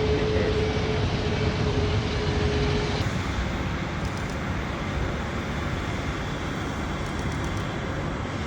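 Steady rumble of airliner jet engines at an airport, with a steady high hum that cuts off about three seconds in.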